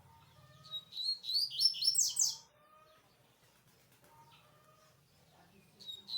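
Double-collared seedeater (papa-capim, coleiro) singing: a quick phrase of rapid high notes, starting about a second in and lasting under two seconds, then one short high note near the end.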